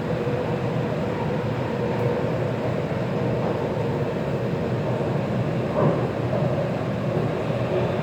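Taipei Metro C341 train running, heard from inside the car: a steady rumble of wheels on rail with a faint held hum, and a brief knock about six seconds in.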